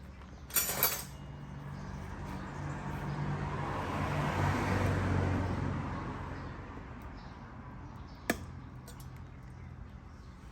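A road vehicle passing by: engine hum and tyre noise swell over a few seconds and then fade away. A short clatter comes near the start and a single sharp knock about eight seconds in.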